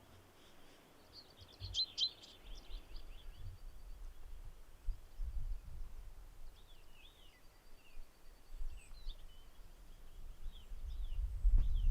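Small birds chirping and trilling, with wind rumbling on the microphone that grows stronger near the end.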